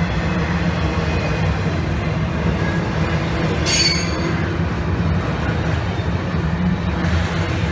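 Train rolling past on the rails: a steady low rumble from the cars, with one brief high wheel squeal about four seconds in.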